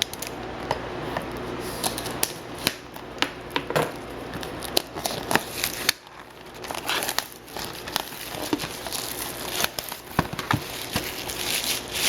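Crinkling and tearing plastic wrapping with irregular crackles as a sealed box of hockey trading cards is opened.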